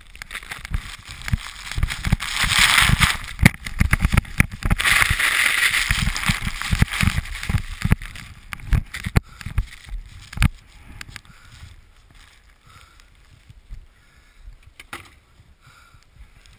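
A snowboard rushing through deep powder with wind buffeting the camera microphone, a loud hiss with many low thumps that swells for several seconds, then dies away about ten seconds in as the rider slows.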